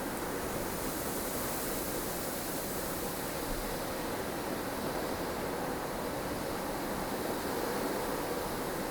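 Blustery snowstorm wind: a steady rushing noise that swells and eases gently in the higher hiss.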